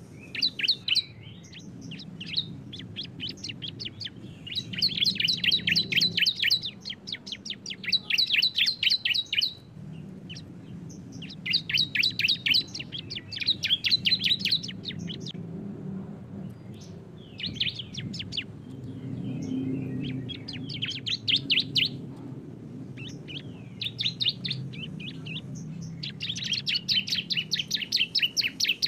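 Bar-winged prinia (ciblek) song: rapid trills of sharp repeated notes, about eight a second, delivered in bursts of a second or two with short pauses between them. This is the long rattling "ngebren" song used as a lure for silent birds.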